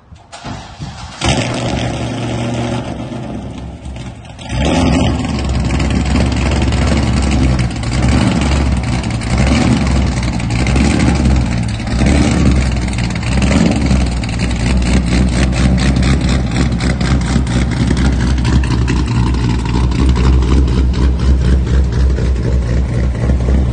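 Modified C6 Corvette Z06's LS7 V8 (heads, cam and intake, long-tube headers, no cats or mufflers) cranking and firing about a second in, revving once around four seconds in, then settling into a loud, choppy, pulsing idle.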